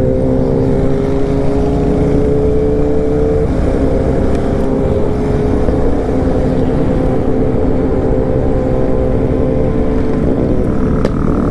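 Motorcycle engine running at a steady cruise, its tone holding with slight drifts, over heavy rushing wind noise on the rider's microphone.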